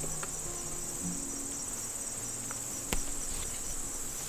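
Steady, high-pitched insect trill, typical of crickets, with one sharp click about three seconds in.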